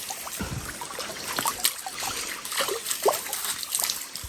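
Water trickling and splashing steadily, with many small irregular drips and splashes.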